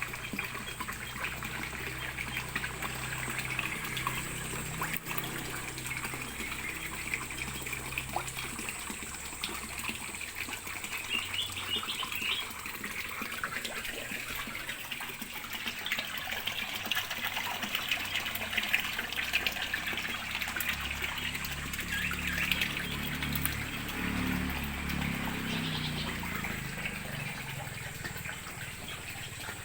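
Water trickling and splashing steadily, with faint bird chirps now and then.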